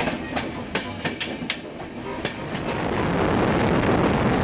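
Passenger train running on the rails, its wheels clicking over the rail joints in a clickety-clack. From about halfway on, a rushing noise rises and grows louder as another train passes close alongside.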